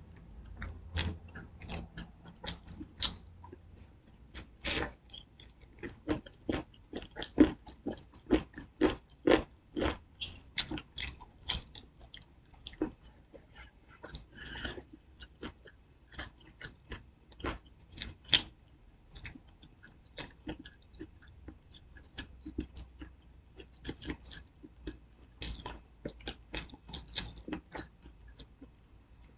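A person biting and chewing fried chicken close to the microphone: a run of irregular short crunches and wet mouth clicks, busiest and loudest in the middle.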